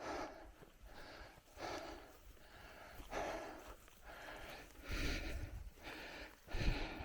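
A cyclist breathing hard, a loud breath about every second and a half. A couple of low thumps come in the second half.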